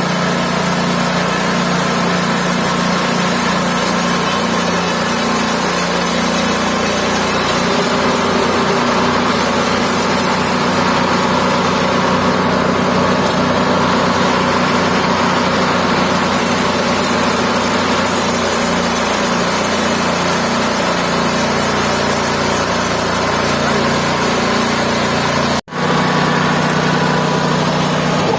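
Mobile band sawmill running with a steady engine note, with a sudden, very brief break in the sound near the end.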